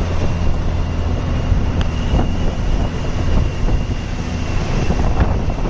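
Heavy truck running along a rough road: a steady low engine hum with a faint high whine, and a few light knocks and rattles.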